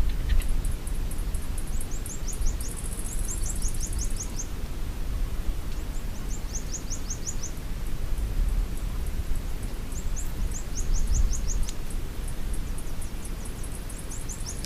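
Outdoor nature ambience: a steady low rumble with runs of five or six high, quick, downward chirps from small birds, repeated every few seconds, and faint rapid ticking above them.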